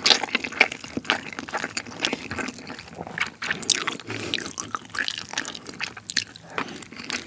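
Close-miked wet chewing and lip-smacking of a mouthful of soy sauce marinated raw crab and rice: a quick, irregular run of moist clicks and squishes.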